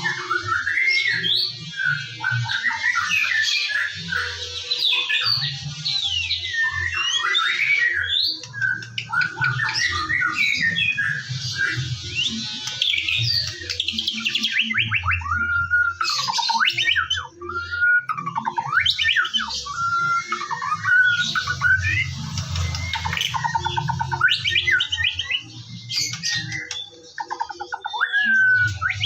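White-rumped shama (murai batu) singing continuously: a fast, varied stream of sliding whistles, rapid trills and harsh chattering notes. It is a lure song of the kind played to stimulate a captive shama into full song.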